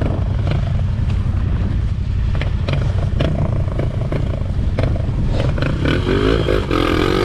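Motorcycle engine running steadily at idle close by, with scattered clicks and knocks. In the last couple of seconds a second motorcycle engine revs, its pitch rising and then falling.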